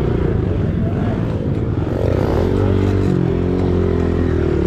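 Pit bike engine running and revving, its pitch dipping and rising again about two seconds in as the throttle is worked.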